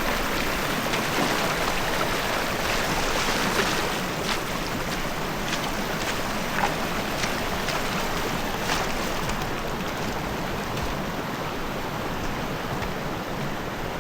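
Fast-flowing braided river rushing: a steady wash of moving water, with a few short sharp ticks over it.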